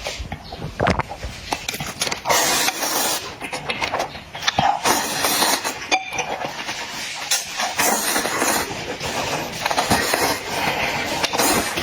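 Close-miked eating sounds: instant noodles being slurped and chewed in a run of irregular noisy slurps with wet clicks.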